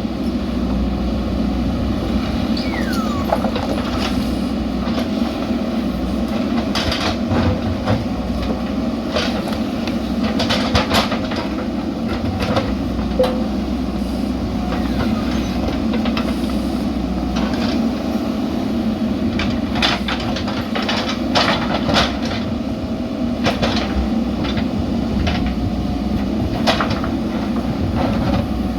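JCB backhoe loader's diesel engine running steadily under work, with repeated sharp metallic clanks and knocks from the digging gear.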